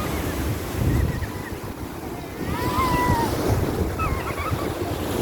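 Sea waves washing on a beach, with wind buffeting the microphone. A few faint, high-pitched gliding calls are heard over it.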